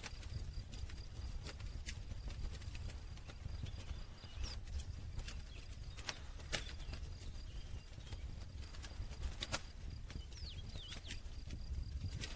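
Wood campfire crackling: irregular sharp pops and snaps, a few louder than the rest, over a low steady rumble.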